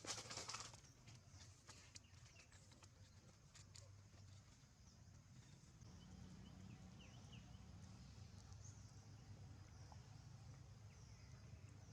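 Near silence: faint background with a steady low hum, a few faint clicks early on, and several faint short high chirps.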